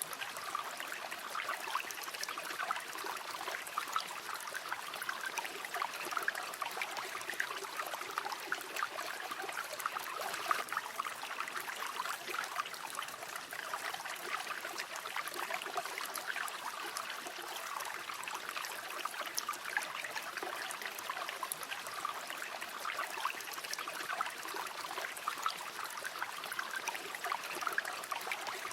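A river flowing steadily over stones, a continuous babbling with fine splashes and trickles and no change in strength.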